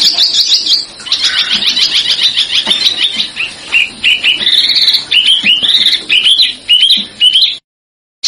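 Songbird singing a rapid, tightly packed rolling series of high chirps and trills. The song stops abruptly near the end, and after a short dead silence another run of song begins.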